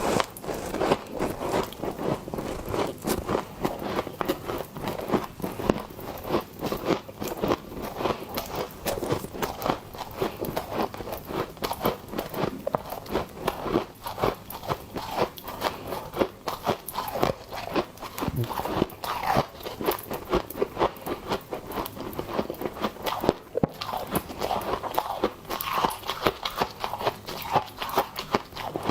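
Soft, powdery freezer frost being bitten and chewed close to the microphone: a dense, unbroken run of quick, crisp crunches and crackles.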